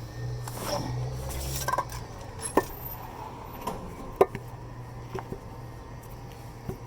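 Metal tools and exhaust hardware clinking, with a few sharp, separate metallic clicks, the loudest about two and a half and four seconds in, over a low hum.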